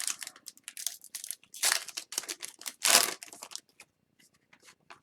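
Foil hockey-card pack wrappers crinkling and cards being handled, in uneven bursts, the loudest about two and three seconds in, dying away to a few small crackles near the end.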